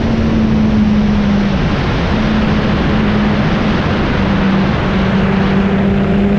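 Motorcycle engine running at a steady cruise under heavy wind rush, its note easing off briefly a couple of times.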